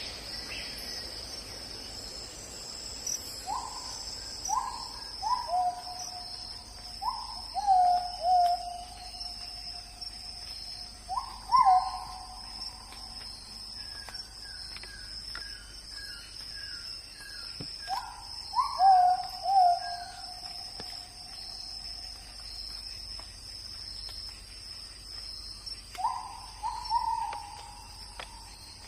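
Night-time forest ambience: a steady, high-pitched insect drone, with repeated animal calls over it, each a quick upward sweep held briefly as a tone, coming in clusters several times. Midway, a run of quick, evenly spaced higher notes joins in for several seconds.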